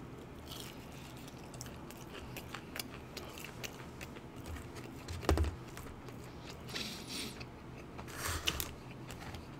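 Close-miked chewing of crispy breaded fried chicken: many small crunches and wet mouth clicks, with a few louder crunches in the second half.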